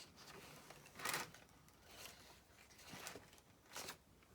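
A few brief, soft rustles from paper and craft supplies being handled and sorted through: one about a second in, another around three seconds, and a last one just before four seconds.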